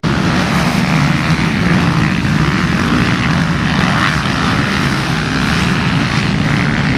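Several motocross bikes racing past at high revs, their engines blending into one loud, steady drone.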